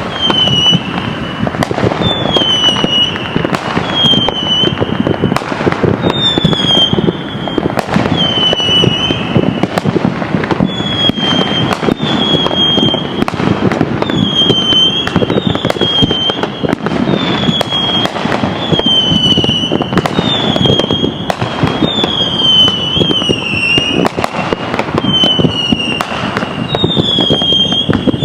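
Fireworks going off in a continuous barrage: frequent sharp bangs and crackling, with a short high falling whistle about once a second.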